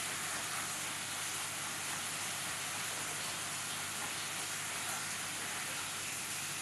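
Steady sizzling of food frying in a pan on a gas stove.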